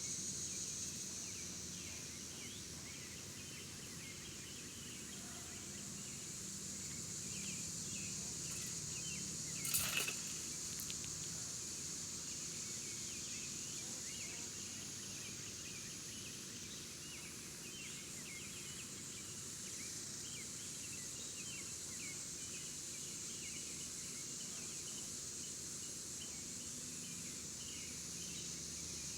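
Steady high-pitched insect chorus, like crickets, with scattered short bird chirps and a single sharp knock about ten seconds in.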